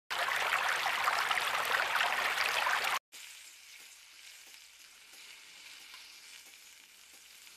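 Food frying and sizzling, loud for about three seconds, then cutting off abruptly and going on much quieter as a faint sizzle with light crackles.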